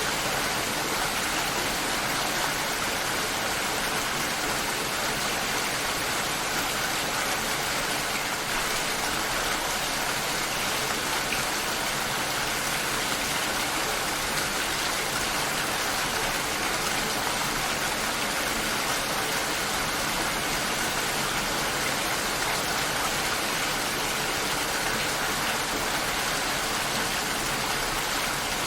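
Steady rain shower falling, an even hiss of rain with no breaks.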